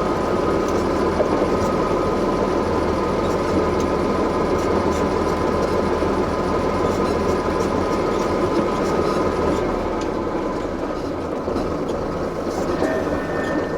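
Heavy vehicle engines running steadily, a continuous mechanical rumble with a steady whine over it; it eases slightly about ten seconds in.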